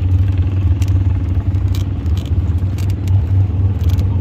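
Steady low rumble of a car engine running at idle, with a few light clicks scattered over it.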